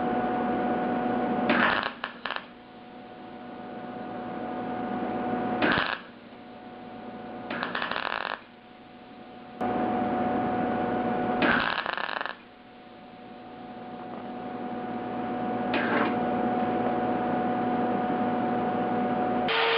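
MIG welder burning in a small steel patch panel on a car door with short stitch welds, run on thin .025 in wire at low current to limit warping: about five brief bursts of welding, the longest under a second, with the welder's steady hum in between.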